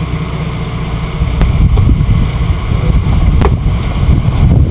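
An off-road 4x4's engine pulling hard under throttle as it tries to climb over rocks, getting louder about a second in, with a few sharp knocks and scrapes.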